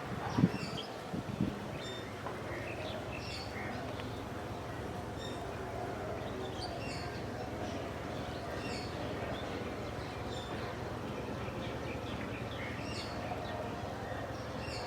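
Small birds chirping, many short high notes scattered throughout over steady outdoor background noise. A few loud low thumps come in the first second and a half.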